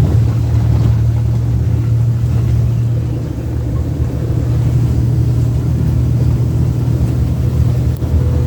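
Vehicle running as it travels along a road, a steady low drone that cuts off abruptly at the very end.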